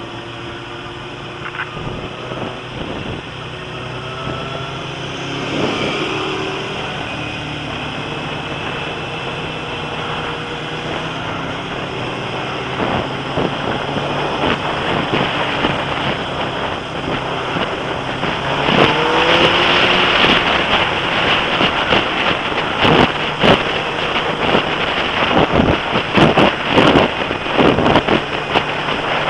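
Suzuki Gixxer sports motorcycle's engine running at road speed, its pitch rising as it accelerates a few times, under heavy wind noise on the camera microphone. The wind buffeting grows louder and gustier in the second half.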